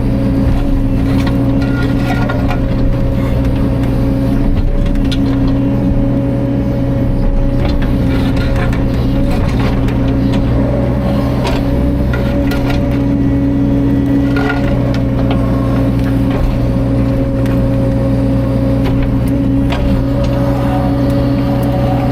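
CAT 305.5 mini excavator's diesel engine running steadily at working revs, with scattered knocks and cracks from the machine handling wood.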